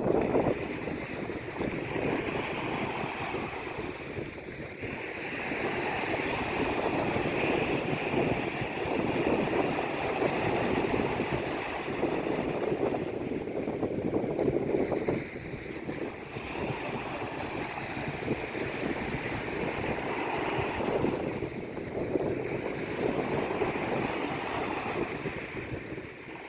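Sea waves washing in and drawing back, the surf swelling and easing every few seconds.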